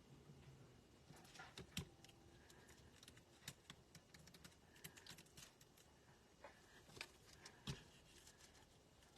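Faint, scattered light ticks and taps of small die-cut cardstock pieces being worked loose and handled, as they are poked out and peeled from their adhesive paper backing.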